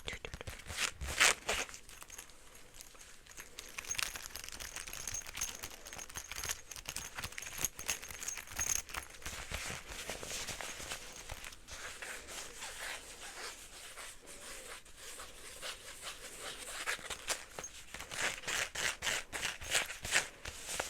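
Fingers scratching and rubbing a fabric wallet up close: a dense run of crisp scratches and crinkles, busier near the start and the end.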